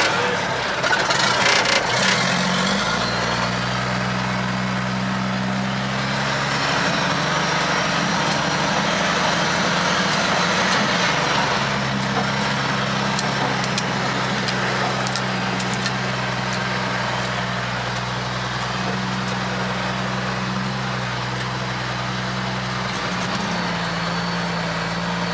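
Mack R600 truck's diesel engine running steadily under way, its pitch shifting a few times as it changes speed, with a few clicks about a second or two in.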